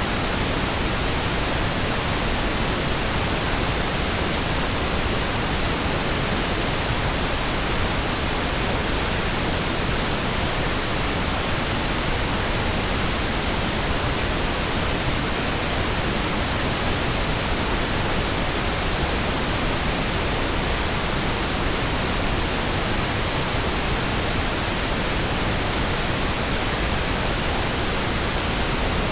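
Synthesized pink noise: a steady, even hiss across the whole frequency range, with no changes or interruptions.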